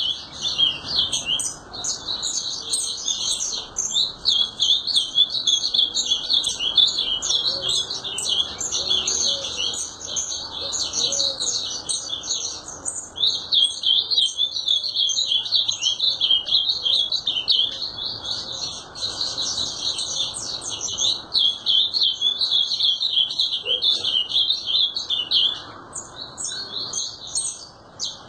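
Ultramarine grosbeak (azulão) singing a fast, continuous string of chirping, warbled notes, with one short pause about halfway through.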